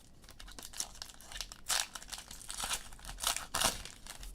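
Trading cards being handled, with plastic crinkling and rustling in a quick run of irregular rustles. The loudest come about a third of the way in and again near the end.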